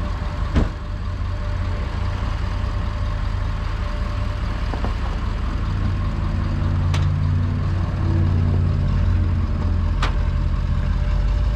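A truck engine running steadily at idle, with a sharp knock about half a second in and a couple of faint clicks later on.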